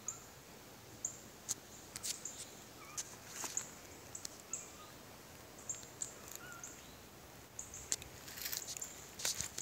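Small birds calling in woodland: a series of short, high-pitched notes with a few lower chirps between them. Near the end, footsteps crunch through dry leaf litter.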